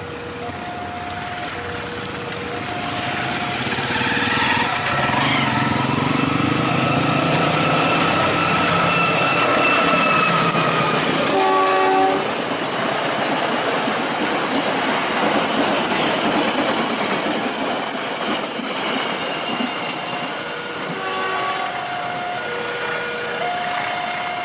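A level-crossing warning alarm alternating between two tones while a KAI diesel locomotive approaches and sounds its horn in a long note that sags slightly in pitch as it passes, then gives a short blast about twelve seconds in. The rumble and clatter of the passing cargo wagons follows, with the two-tone crossing alarm returning near the end.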